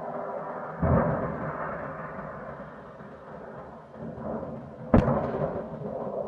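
Two deep booms over a steady musical drone, the second a sharp, louder bang about five seconds in.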